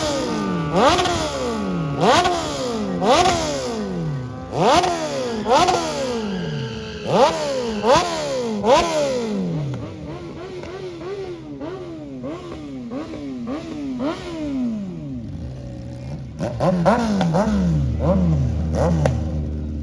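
A vehicle engine being revved over and over in short blips, the pitch climbing and falling back about once a second. About halfway through the blips become quicker and quieter, then louder again near the end.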